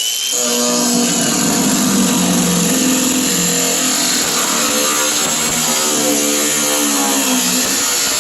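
Angle grinder with a cutoff wheel spinning up with a rising whine, then running steadily under load as it cuts through the steel sheet metal of a truck bed.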